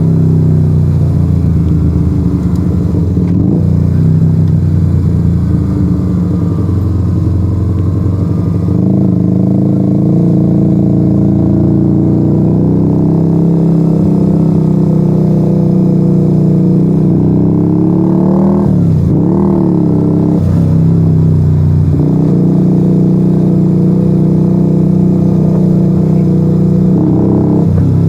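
Yamaha XV125 Virago's small air-cooled V-twin running through an open Turbo Kit straight-pipe exhaust with the dB killers removed, heard while riding. The engine holds fairly steady revs, picks up about a third of the way in, and briefly drops and climbs in pitch again about two-thirds through.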